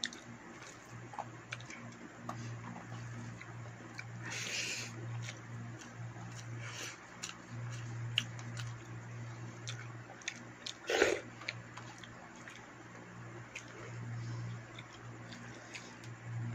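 A person eating rice by hand: chewing and mouth sounds with scattered faint clicks, and a few short noisy bursts, the loudest about eleven seconds in. A steady low hum runs underneath.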